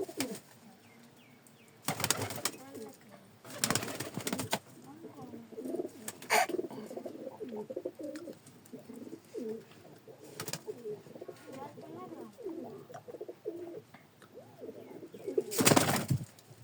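Teddy pigeons cooing, a run of low repeated wavering coos through the middle, broken by a few short loud bursts of noise near the start and the end.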